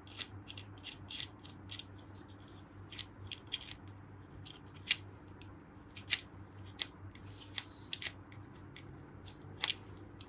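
Old gasket material being scraped off the engine case's gasket surface: short, irregular scraping strokes, a few a second with pauses, over a faint steady low hum.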